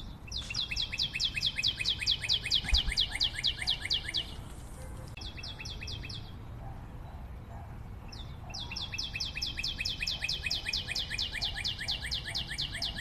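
A bird calling in three rapid trills of high, quick repeated notes, several a second: two long trills and a short one between them.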